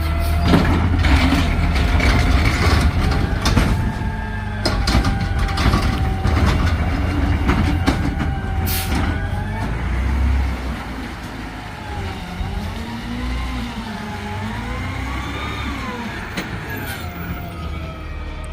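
Garbage truck at work: its engine running low and steady, a whine that wavers up and down, and sharp knocks and clanks, most of them in the first ten seconds.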